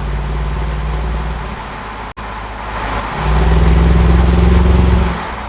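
Jaguar XK8's AJ27 V8 exhaust under a rolling acceleration, with a deep, steady note. It breaks briefly about two seconds in, then runs louder for a second pull from about three seconds in before easing off near the end.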